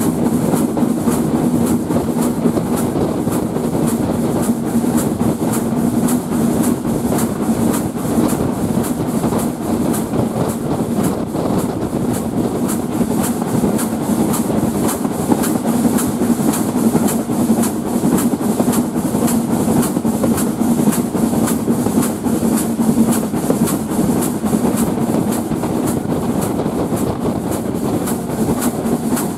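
Steam-hauled train running at speed, heard from an open carriage window: the steady rumble and clatter of the coaches on the track, with a fast, even rhythm throughout.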